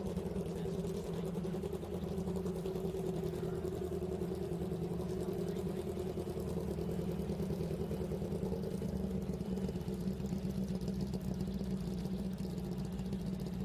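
An engine idling steadily, a constant hum that holds the same pitch and level throughout.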